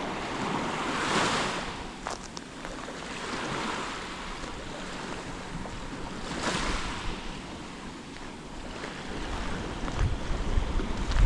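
Sea waves breaking and washing up the shore, with two louder surges about five seconds apart. Wind buffets the microphone near the end.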